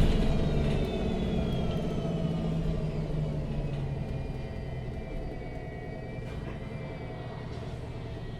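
MAN NG 313 CNG articulated city bus heard from inside as it slows: the low engine and drivetrain rumble gradually fades, with a thin whine that falls steadily in pitch.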